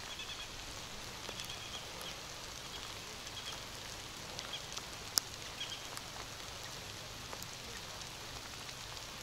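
Steady light rain falling, with scattered sharp ticks of drops landing close by, the loudest a little past halfway. A few short high chirps sound in the first half.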